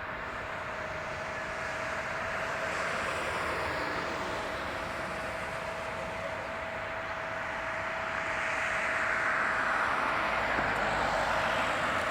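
Jet engine noise from an Airbus A318 business jet's CFM56 turbofans on final approach, a steady rushing sound that grows louder as the aircraft comes nearer, loudest about three quarters of the way through.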